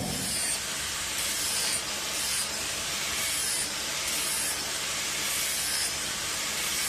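Steady hiss of a running forge, even and unbroken.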